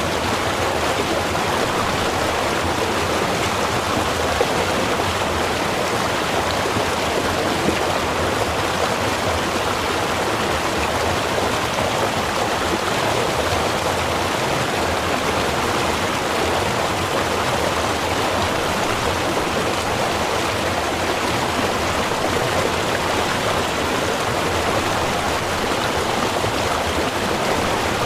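Small river running, a steady, even rush of water that does not change.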